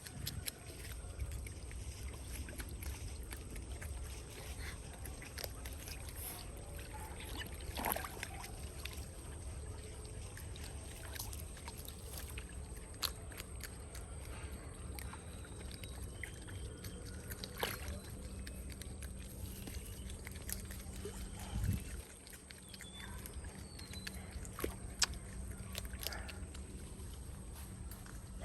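Otters moving in water, with sloshing and splashing over a steady low rumble and scattered knocks, and a few faint, short high squeaks.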